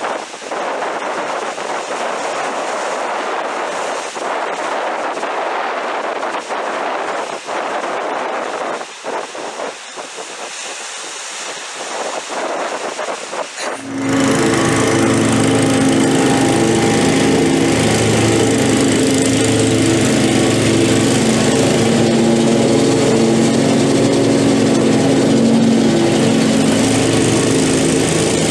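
A rushing, wind-like noise, then about halfway through a lawn mower engine starts to be heard, running steadily and louder, with its low hum and pitched drone.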